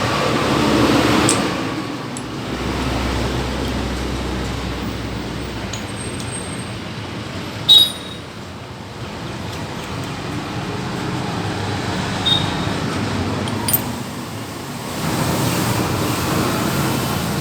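Steady vehicle and road-traffic noise, with one sharp knock about eight seconds in.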